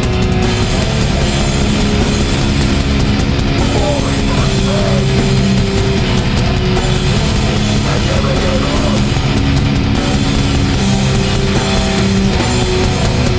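A hardcore band playing live at full volume: distorted electric guitars holding chords over fast, steady drums.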